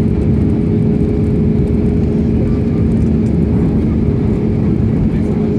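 Airliner cabin noise heard from inside the cabin on approach: a steady low rumble of engines and rushing air with a constant two-tone hum underneath.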